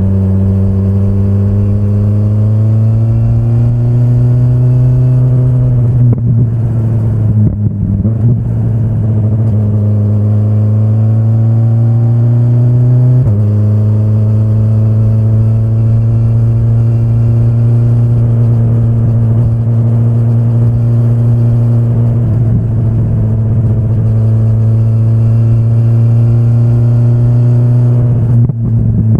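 2025 BMW S1000RR's inline-four engine, ridden under load. Its pitch climbs over the first six seconds, breaks up and turns ragged for a moment, then climbs again. About thirteen seconds in the pitch steps down suddenly, and after that it holds fairly steady.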